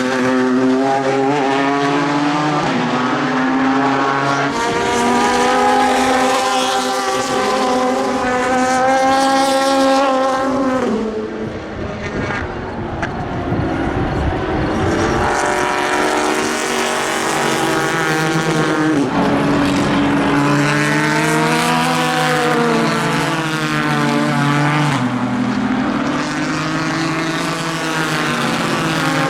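Ford GT GTE race cars' twin-turbo V6 engines at racing speed. The revs climb and drop repeatedly through gear changes, with a short quieter stretch about halfway.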